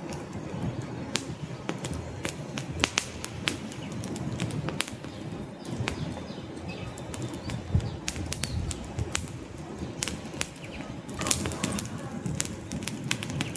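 Wood fire in a fireplace crackling: sharp, irregular pops and snaps over a steady low rumble of burning logs.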